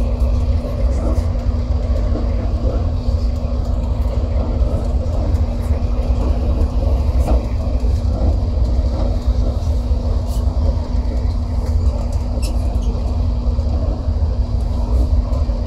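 Steady rumble of a passenger train running at speed, heard from inside the carriage, with a constant low hum and a few faint clicks over it.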